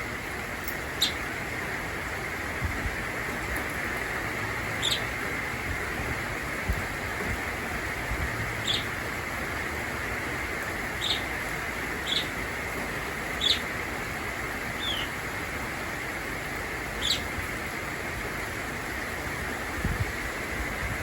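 Budgerigar giving short, high single chirps, about eight spread out, over the steady hiss of rain.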